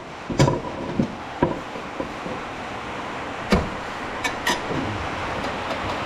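Hand tools clanking and knocking on a lawn mower's metal blade spindle as it is worked loose: a handful of sharp knocks, over a steady hiss that grows louder toward the end.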